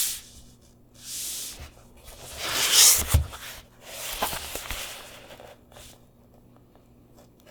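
Packaging being handled and opened by hand: several bursts of rustling and tearing, the loudest about three seconds in, with a few light knocks mixed in.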